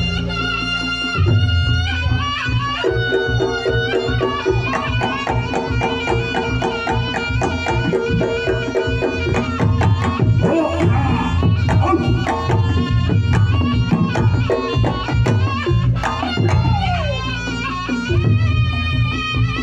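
Reog Ponorogo gamelan playing the standard jathilan accompaniment: fast kendang drumming over dense interlocking percussion and deep gong strokes, with a wavering slompret melody above.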